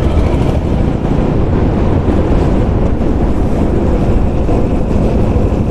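Steady wind buffeting the microphone while riding a motorcycle, heaviest in the low end, with the bike's running beneath it.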